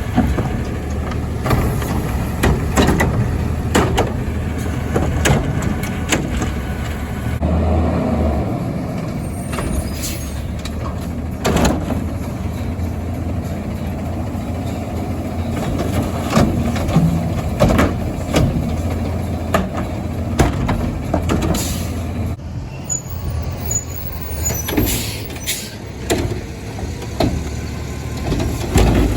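Garbage truck's diesel engine running steadily, with frequent sharp knocks and clanks of metal.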